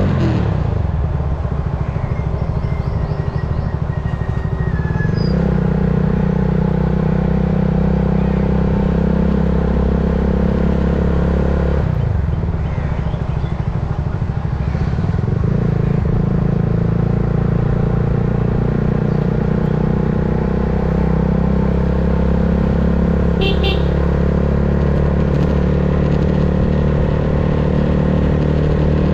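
Motorcycle with a titanium Yoshimura GP Magnum aftermarket exhaust running on the move. The engine note drops sharply at the start, settles to a steady cruise about five seconds in, dips and climbs back again around twelve seconds, then holds steady.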